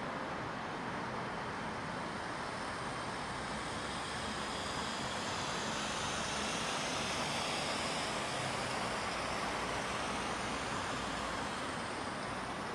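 A car passing by, its tyre and engine noise swelling to a peak about seven seconds in and then fading, over a steady hum of background noise.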